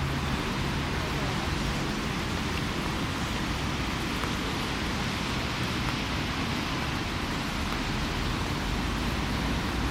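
Steady hiss of light rain, with a low hum underneath that fades after the first couple of seconds.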